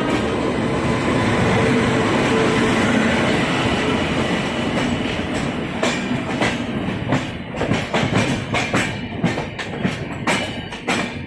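Passenger train running on the rails with a loud, steady rush of noise. From about halfway, a rapid, uneven clatter of wheels clacking over rail joints grows more distinct.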